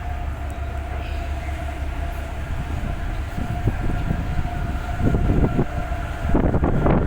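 Ferry's engine droning steadily, a low hum with a held whine above it. About five seconds in, irregular knocks and a rushing noise join it and grow louder as the ship is tossed about in the storm.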